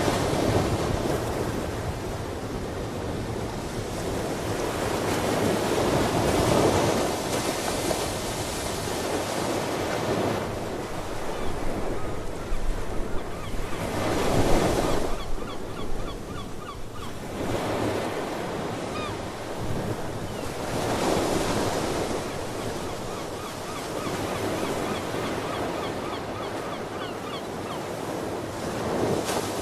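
Ocean waves washing onto the shore, each swell rising and falling about every seven or eight seconds, with a little wind. Faint sea bird calls come through in the middle and near the end.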